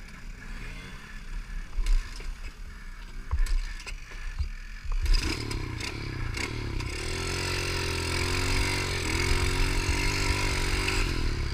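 A few knocks and handling clatter, then about five seconds in a motorcycle engine comes in and keeps running, its pitch and loudness slowly rising as it revs or pulls away.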